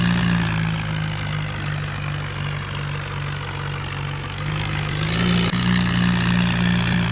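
Swaraj tractor's diesel engine running steadily, its pitch rising a little and growing louder about five seconds in.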